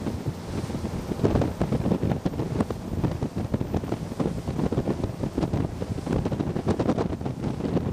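Gusty wind buffeting the microphone over the rush of sea water and waves.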